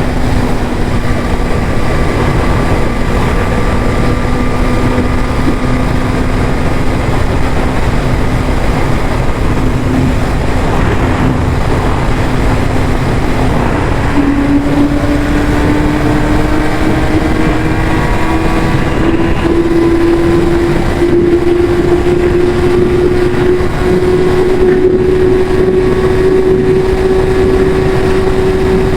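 Yamaha YZF-R6 inline-four engine through its stock exhaust, running at a steady pitch, over heavy rushing noise. About halfway through the pitch steps up suddenly, then climbs slowly as the bike pulls.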